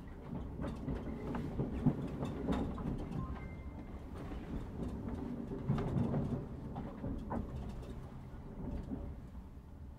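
Passenger train running through a station yard toward its terminus, heard from inside the carriage: a steady low rumble of wheels on rail with irregular clicks and knocks as the wheels pass over points and rail joints.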